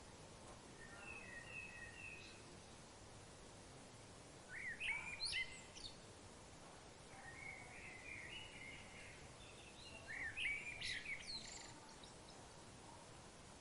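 Birds calling faintly over a steady background hiss: a few short whistled notes, then two louder runs of quick, sharp chirps about six seconds apart, with a warbled phrase between them.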